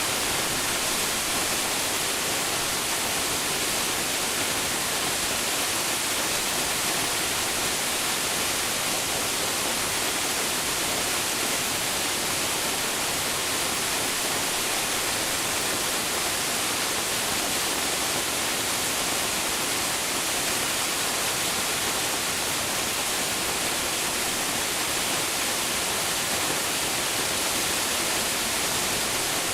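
Waterfall crashing into its pool: a steady, dense hiss of falling water with no change throughout.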